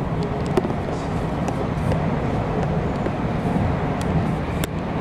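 Running noise of a JR 485-series electric train heard from inside the passenger car: a steady low rumble with a few brief sharp ticks.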